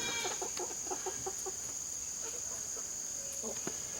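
Australorp chickens clucking, a quick run of short low clucks in the first second and a half and then a few fainter ones, over a steady high-pitched insect drone.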